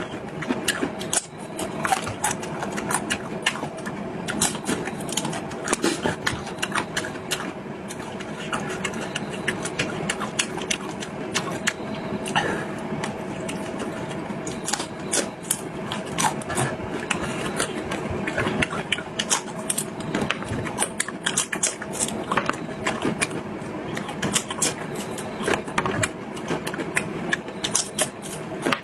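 A person chewing food close to the microphone, many quick irregular clicks and smacks over a steady background hum.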